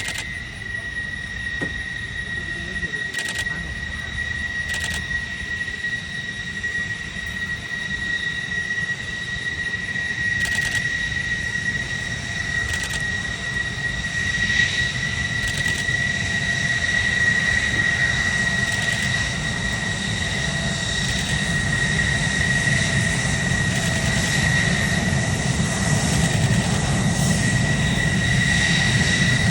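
Aircraft engines running with a steady high whine over a low rumble, slowly growing louder.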